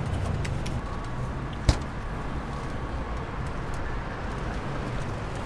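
Street ambience with a steady rumble of passing traffic, and one sharp knock a little under two seconds in.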